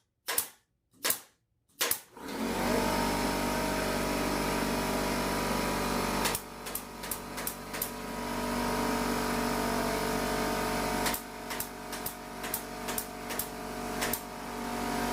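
Staple gun firing staples through the pool table felt: four quick shots in the first two seconds, then further runs of quick shots about six seconds in and again from about eleven seconds. From about two seconds in, a steady motor hum runs underneath, most likely the air compressor feeding the staple gun.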